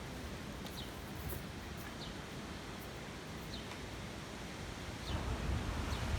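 Strong tropical-storm wind blowing through trees, a steady rustling hiss of leaves, with a few faint high chirps. About five seconds in, gusts begin buffeting the microphone with a louder low rumble.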